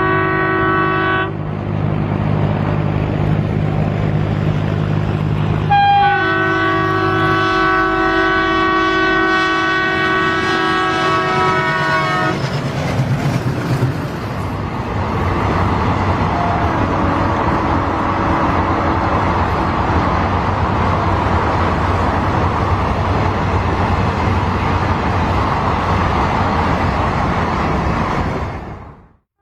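Indian Railways locomotive horn: a short blast at the start, then a longer steady blast of about six seconds beginning about 6 s in, over the low hum of the locomotive. After that the train's running noise takes over, a steady rumble and clatter of the wagons, which cuts out abruptly near the end.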